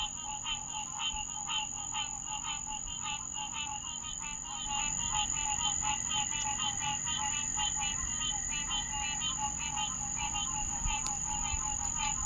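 Night chorus of frogs calling over and over in quick pulses, many voices overlapping, over a steady high-pitched whine. The chorus gets a little louder about halfway through.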